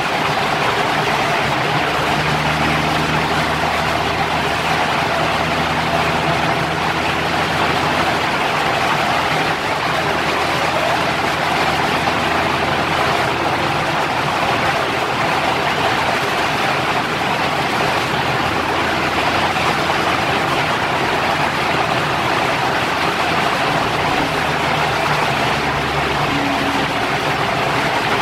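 Audi R8 V10 Plus's 5.2-litre V10 idling steadily on a chassis dynamometer, with no revving, under the loud, even rush of a large workshop blower.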